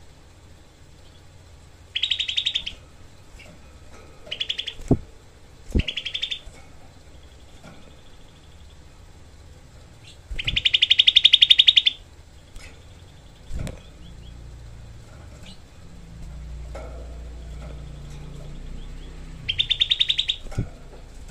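Grey-bellied bulbul (cucak kelabu) giving five bursts of a rapid, rattling trill, the loudest and longest, about a second and a half, near the middle. A few dull knocks are heard between the bursts.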